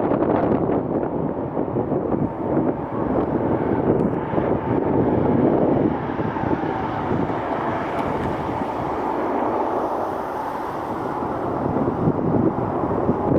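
Jet airliner engines running as the plane passes, a dense, steady noise with a faint steady whine, and wind buffeting the microphone.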